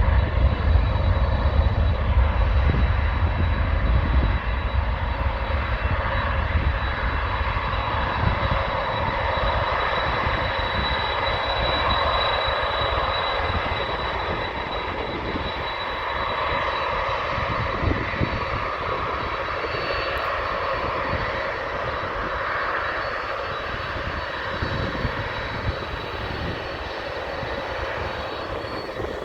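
Jet airliner engines roaring on departure, the deep rumble strongest at first and the whole roar slowly fading as the aircraft climbs away.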